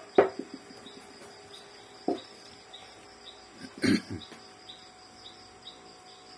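A few sharp clicks and knocks from the printer's parts being handled, the loudest about four seconds in, over faint crickets chirping at an even pace throughout.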